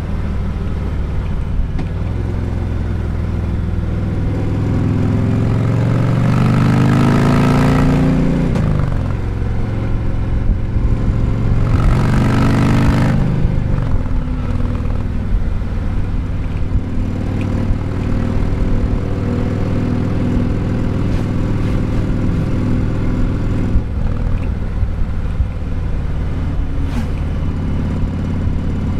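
Harley-Davidson Sport Glide's Milwaukee-Eight 107 V-twin engine running under way. Its pitch swings up and down twice in the first half as it accelerates and eases off, then it runs steadily.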